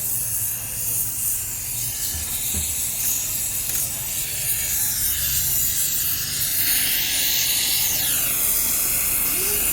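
A steady high hiss over a low hum, with some sweeping, bending tones in the hiss near the end.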